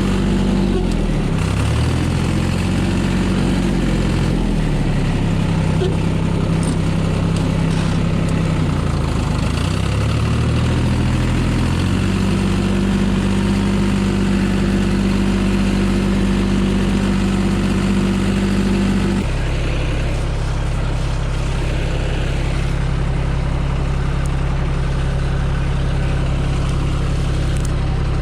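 A vehicle engine running, its speed rising and falling several times, then holding steady at a higher speed. About nineteen seconds in it drops suddenly to a lower, steady running speed.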